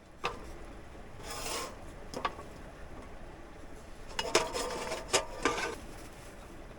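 Cooking gear being handled during food preparation: a few sharp knocks and clinks with short rasping scrapes, clustered in a busier run of clatter about four to six seconds in.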